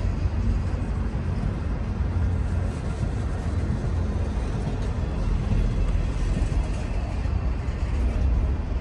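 CN intermodal freight train rolling past while slowing, with a steady low rumble of wheels on the rails.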